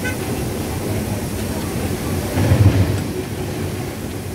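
Diesel train running, heard from inside the driver's cab: a steady engine and wheel-on-rail rumble, with a heavier low rumble about two and a half seconds in. A short high beep sounds right at the start.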